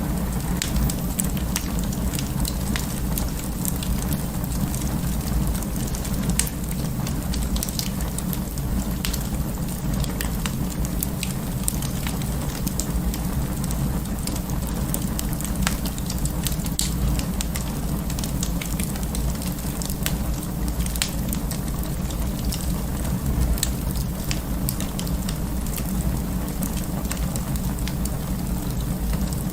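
Wood fire burning in an open fireplace, crackling with frequent sharp pops over a steady low rumble of the flames.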